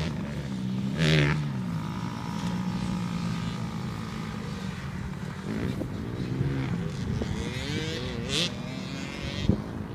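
Small dirt bike engine running, its pitch rising and falling as the throttle is opened and closed. A brief louder rush of noise comes about a second in.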